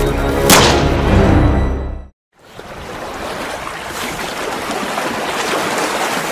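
A single gunshot over dark, dramatic music about half a second in. The music cuts off about two seconds in, and a steady rush of stormy water takes over.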